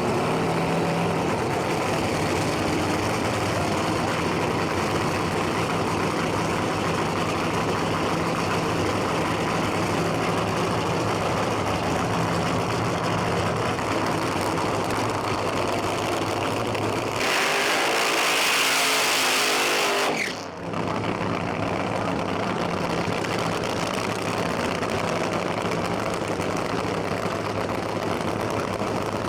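Nitromethane-fuelled funny car engine running steadily at a loud, rough idle. About 17 seconds in it gives way for some three seconds to a louder, hissing rush, then drops back to idle.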